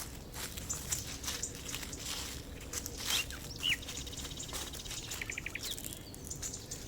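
Small woodland birds chirping: a few short falling calls, a rapid ticking trill about four seconds in, and a quick run of notes just after. Under them runs an irregular light crackling.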